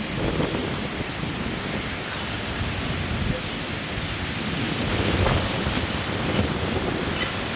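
Hurricane-force wind blowing in gusts, buffeting the microphone, with a low rumbling noise that swells about five seconds in.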